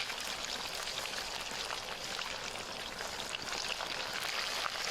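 Fish cooking with a steady sizzle dotted with fine crackles.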